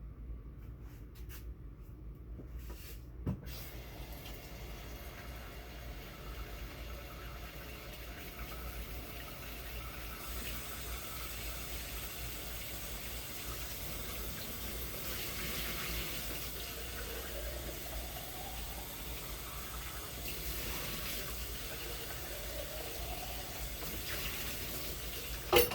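A knock, then a steady rush of running or churning liquid for about twenty seconds, ending in a sharp click.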